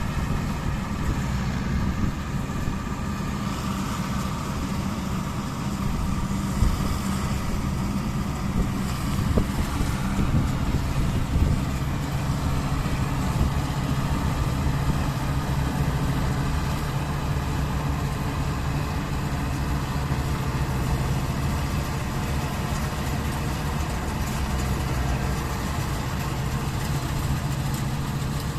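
Mahindra Novo 655 DI tractor's diesel engine running steadily with a constant low hum, driving the harvester.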